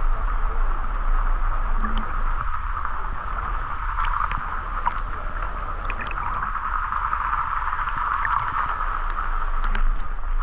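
Waterfall and river water rushing, a steady, unbroken sound with a low rumble beneath and a few faint ticks and splashes.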